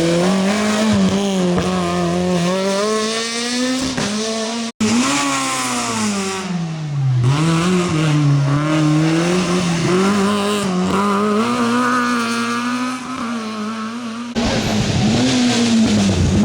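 Rally car engines driven hard, the engine note climbing and dropping again and again as the drivers rev, shift and lift. The sound breaks off abruptly twice, about five seconds in and near the end, as the footage cuts to another car.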